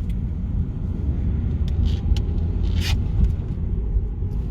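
Car driving, heard from inside the cabin: a steady low rumble of engine and road noise, with a few light clicks and a short hiss about three seconds in.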